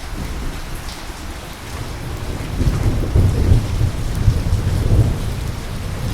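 Steady rain hissing, with a deep rumble of thunder that builds about two seconds in and rolls on, loudest in the middle.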